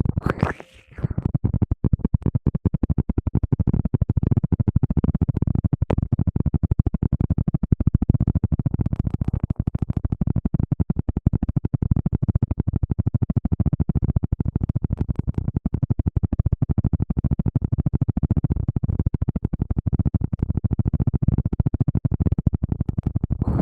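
Rapid, continuous scratching and rubbing right against the microphone, the close-up rustling used as an ASMR trigger. It is dense and heavy in the low end, starts about a second in and cuts off suddenly near the end.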